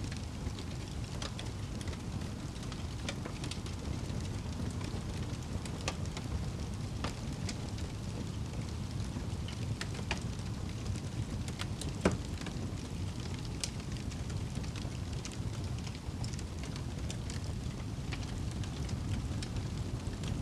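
Wood fire crackling, with scattered sharp pops over a steady low rumble; one louder pop about twelve seconds in.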